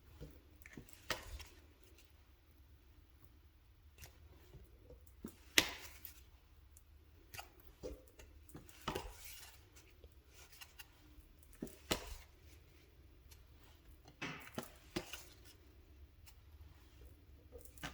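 Oracle cards being handled and flipped one at a time: a sharp card snap or slap every few seconds, with soft rustling and sliding of card stock between. A low steady hum sits underneath.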